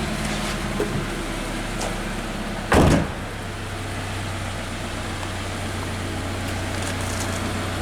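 2014 Scion FR-S's 2-litre flat-four boxer engine idling steadily, with a car door shut once about three seconds in.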